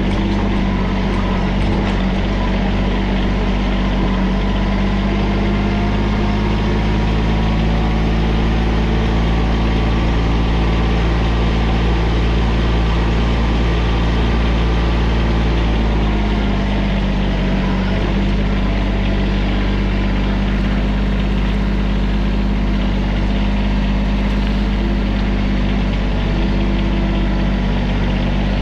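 Diesel engine of a TYM tractor backhoe running steadily under work, its note shifting slightly about sixteen seconds in.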